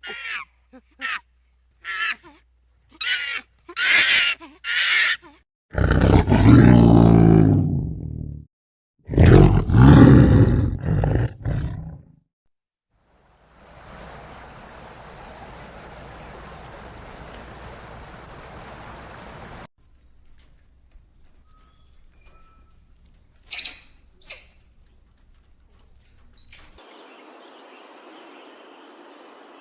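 A run of separate animal calls: short high bird chirps, then two loud, deep roars from a large animal, then a steady high-pitched trill like an insect's, then a few more scattered chirps.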